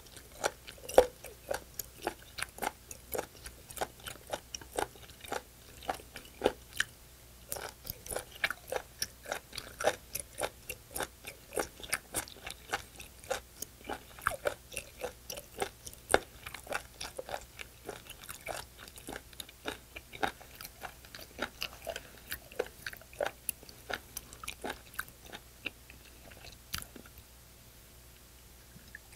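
Close-miked chewing of raw seafood, a steady run of sharp clicks about three a second that stops near the end.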